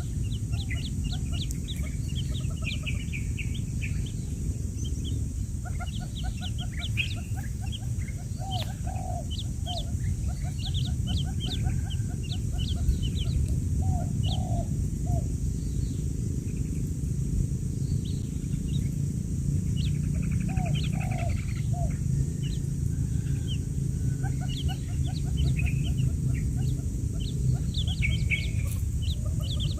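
Quail chicks peeping: many short, rapid high chirps coming in overlapping clusters, with some lower calls mixed in, over a steady low hum.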